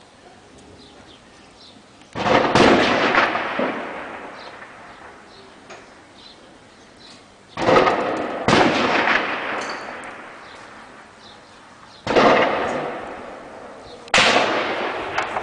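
Shelling: five heavy blasts from artillery or shell impacts, about two seconds, seven and a half, eight and a half, twelve and fourteen seconds in, each hitting suddenly and rolling off with a long echoing tail.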